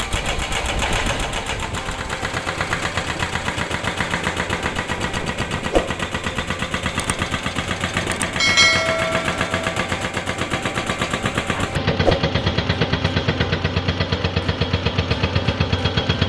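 Hydraulic rock breaker on a Komatsu excavator hammering rock in a fast, steady stream of blows, with the excavator's engine running underneath. A short high-pitched ringing sounds about halfway through.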